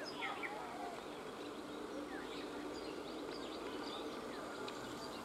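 Birds chirping now and then over a steady, faint outdoor background noise.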